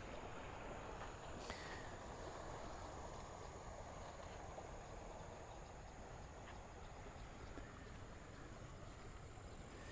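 Faint outdoor ambience: a steady hiss with a thin, continuous high-pitched tone.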